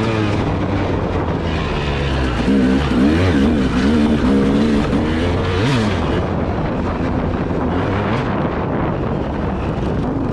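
Vehicle engine running under way, its pitch rising and falling repeatedly, over a heavy rush of wind noise on the microphone.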